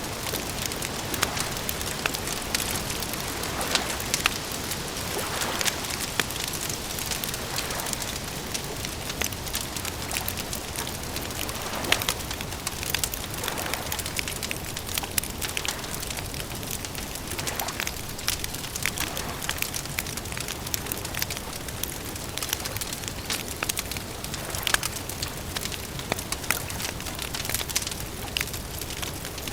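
Campfire crackling: many small irregular pops and snaps over a steady hiss of burning wood.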